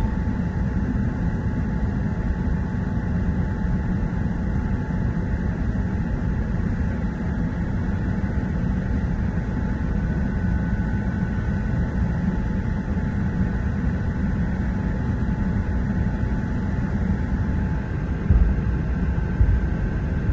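Steady cabin noise inside an Airbus A380 taxiing in after landing: a low engine-and-airflow rumble with a faint steady whine. A few low thumps come near the end.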